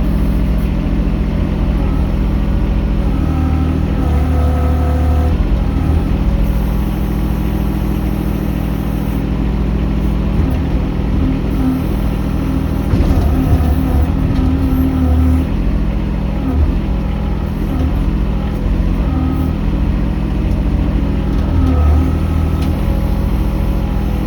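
Mini excavator's diesel engine running steadily while it works, its note dipping and recovering every few seconds as the load changes.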